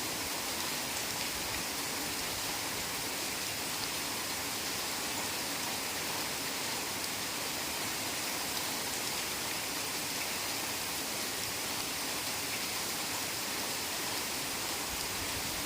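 Heavy rain falling steadily in a forest, a constant even hiss with faint scattered drop ticks.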